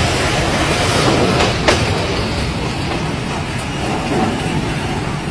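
Passenger train carriages rolling past close by, the wheels running over the rails, with one sharp click about a second and a half in. The noise eases off gently as the end of the train moves away.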